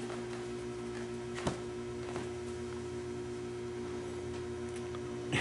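Steady electrical hum, with a sharp click about a second and a half in and a fainter one shortly after.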